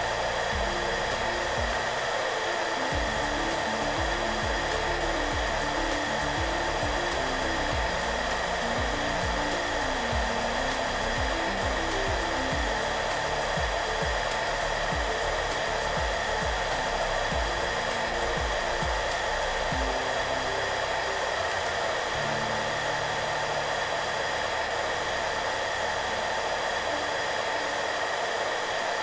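Hair dryer running steadily: an even blowing rush with a constant whine of several fixed tones, over soft background music with short low notes.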